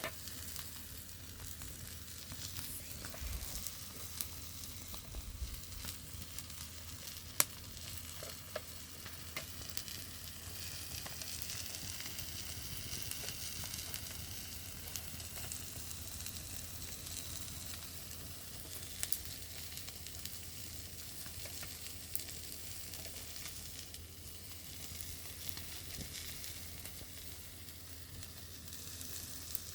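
Fish sizzling steadily as it cooks in hot fat, with scattered sharp pops and spits.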